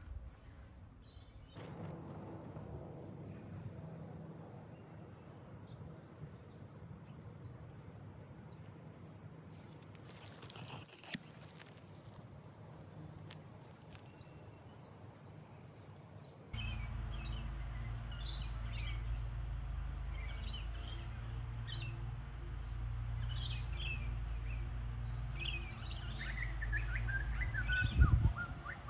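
Small birds chirping, a scatter of short calls over a faint outdoor background. About sixteen seconds in, a steady low rumble comes up beneath the birdsong, and near the end a run of falling notes sounds.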